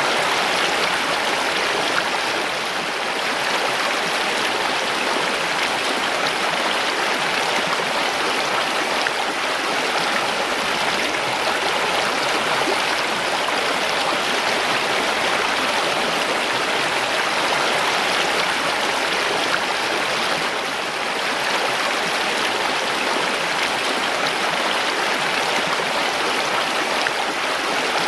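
Mountain stream rushing and babbling over rocks, a steady, dense flow of water.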